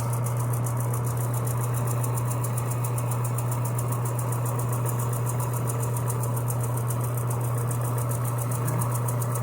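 Electric power sander running steadily against a metal pedal handle, a constant motor hum with a fast buzzing rattle.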